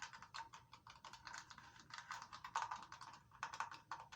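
Rapid light tapping on a rifle, a dense run of small sharp clicks several times a second.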